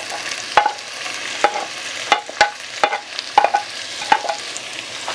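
Chopped onion sizzling in hot olive oil in a pan as it starts to sweat down, with a utensil stirring it and knocking and scraping against the pan about every half second, irregularly.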